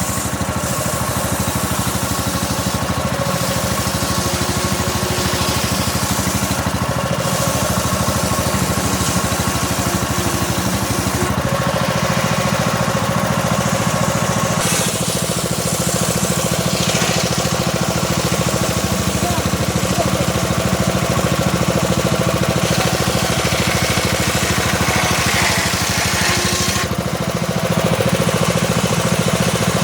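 Engine-driven homemade circular saw running steadily while its blade slowly rips a small teak log lengthwise; the high cutting hiss rises and falls over the engine's steady note.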